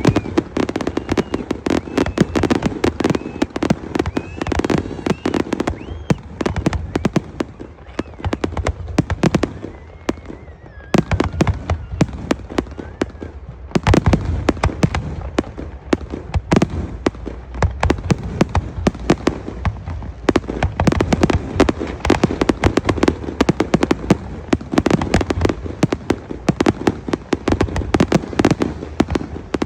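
Fireworks going off: a dense run of bangs and crackles in quick succession, easing off briefly about a third of the way in before picking up again.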